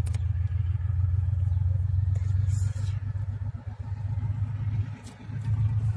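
Low, steady rumble of a 2TE10L diesel locomotive's 10D100 two-stroke opposed-piston engines running, swelling and easing slightly, with a brief hiss about two and a half seconds in.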